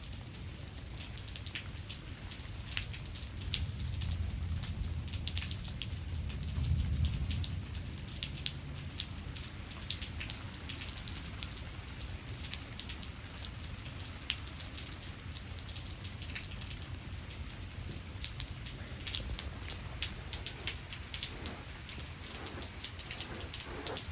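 Steady rain with many individual drops striking a surface close by. A low rumble of distant thunder swells a few seconds in and fades out a few seconds later.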